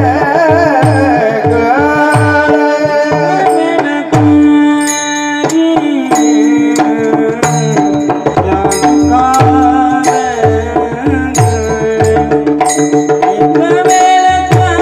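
Varkari bhajan music: a hand drum plays a driving rhythm, its bass strokes gliding down in pitch, under a held drone and a bending melody line, with crisp high strokes marking the beat.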